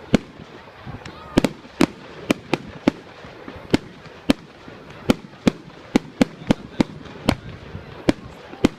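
Fireworks going off in a rapid, irregular series of sharp bangs, about two a second, around twenty in all.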